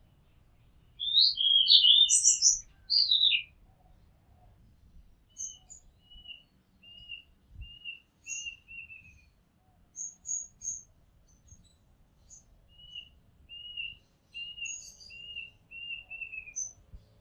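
Oriental magpie-robin singing: a loud burst of varied, sliding whistled phrases about a second in, then two quieter runs of short repeated notes mixed with higher chips.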